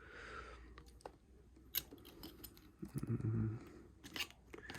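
Plastic Lego pieces being handled and pressed together, with a few sharp clicks, the loudest about two seconds in and again near the end. A short hummed 'mm' comes about three seconds in.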